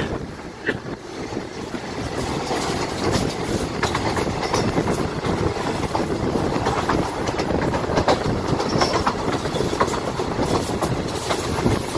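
Passenger train running along the track, heard at the open side of a coach: a steady rumble of wheels on rail with a quick, irregular run of clicks as the wheels pass over rail joints and points.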